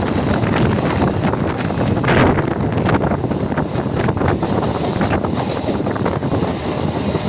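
Train running: a steady, loud rushing noise with wind buffeting the microphone.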